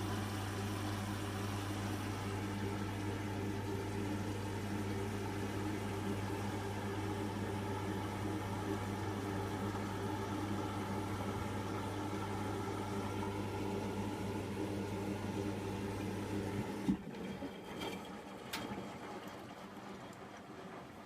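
Hotpoint front-loading washing machine humming steadily during the wash phase of a cotton cycle, likely a pump or valve running as it takes in or lets out water. About four seconds before the end the hum cuts off, followed by a couple of sharp clicks.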